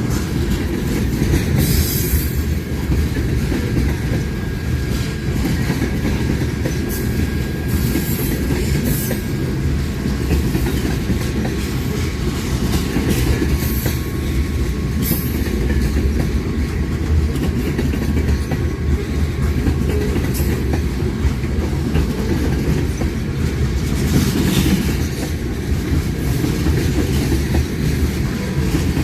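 Railcars rolling past on the rails: a steady low rumble with clickety-clack and scattered sharp clicks from the wheels, and a faint thin wheel squeal in the first part.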